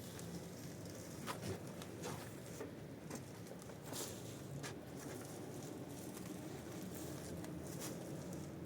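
Scattered light clicks and taps at irregular intervals over a low steady background.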